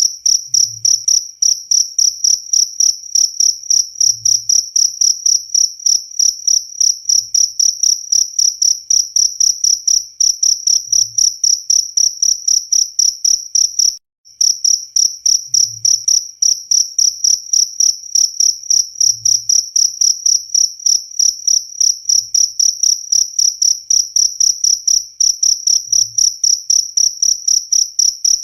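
Cricket chirping loudly and steadily, a continuous run of high-pitched chirps at about four a second; it breaks off for a moment about halfway through.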